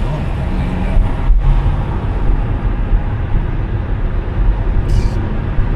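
Car driving with a steady low rumble of road and engine noise, and a short hiss near the end.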